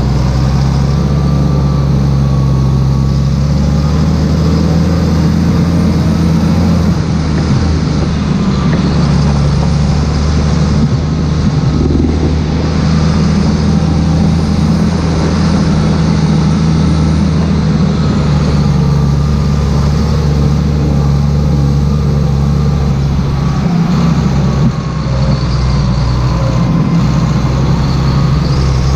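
Claas Xerion 3800 tractor's diesel engine running steadily at a constant pitch.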